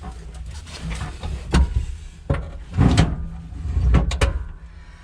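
Kubota L3430 tractor's operator seat being slid and adjusted on its rails, giving a series of clunks and knocks, with the loudest about three and four seconds in.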